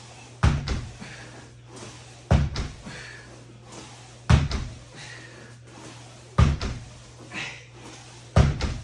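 Five heavy thuds from martial-arts training, about one every two seconds, each with a short ringing tail, over a steady low hum.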